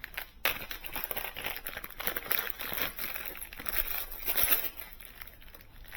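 Packaging crinkling and rustling as it is handled, with many small crackles and clicks and louder bursts about two seconds in and again past four seconds.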